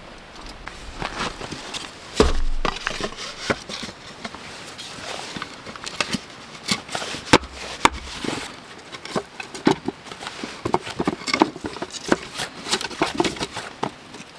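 Irregular knocks and clicks, some sharp and loud, with rustling between them.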